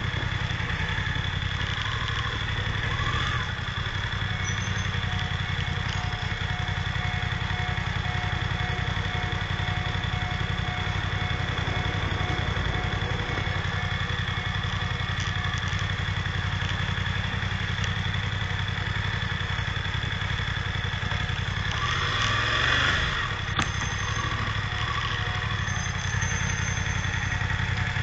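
Car engine running with a steady drone, heard from inside the cabin through a dashcam's microphone. A brief swell of noise comes about 22 seconds in, followed by a single sharp click.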